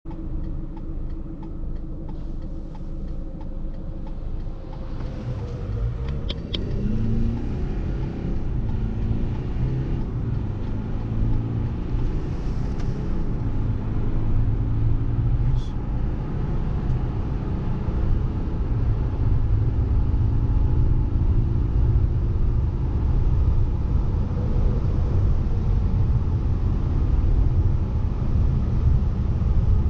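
Subaru Outback 2.0D boxer turbodiesel accelerating hard from a standstill through its Lineartronic CVT. The engine note climbs quickly about five seconds in and then holds nearly steady while the overall noise keeps building as the car gathers speed.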